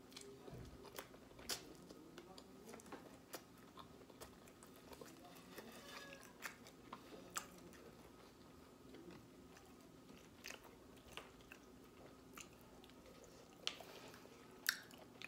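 Close-up mouth sounds of a person chewing a mouthful of goat roti, with scattered wet clicks and smacks throughout; the sharpest smacks come near the end.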